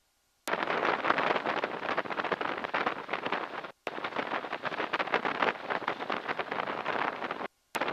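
Cockpit noise of the SNJ-6 Texan's radial engine and wind while taxiing, picked up through the intercom microphone. It cuts in and out abruptly, dropping to dead silence about a second in, briefly near the middle and again near the end, as the voice-activated mic gates.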